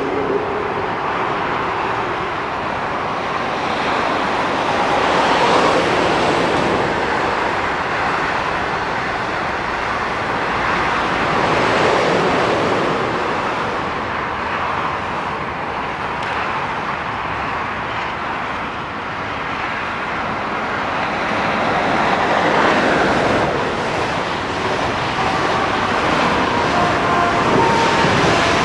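Electric passenger trains on a multi-track mainline: a continuous rushing and rumbling of wheels on rails that swells and fades as the trains pass. A few faint, brief high tones come near the end.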